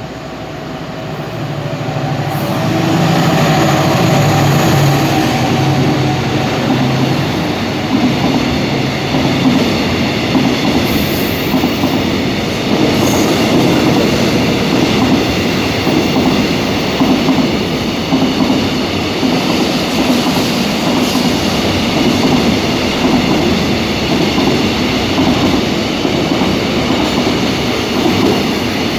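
Korail 7600-class GE PH37ACai diesel-electric locomotive passing, its engine note heard for the first several seconds as the sound swells. Loaded container wagons then roll by with a steady clickety-clack over the rail joints and a faint high wheel squeal.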